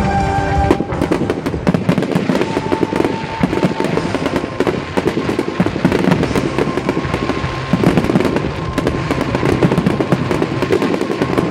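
Fireworks display: aerial shells bursting overhead, with a dense run of rapid crackling from about a second in.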